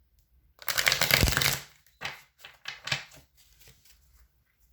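A deck of tarot cards being shuffled: a dense run of rapid card clicks lasting about a second, then a few short flicks as the cards are handled.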